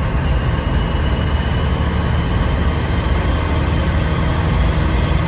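Volkswagen 1.9 TDI diesel engine with a big hybrid turbo and no downpipe, running steadily and loud, with a faint high whine that fades out over the first couple of seconds.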